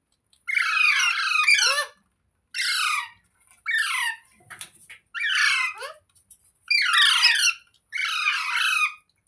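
Parrot squawking: about six harsh, screechy calls in quick succession, each half a second to a second and a half long, with short gaps between them.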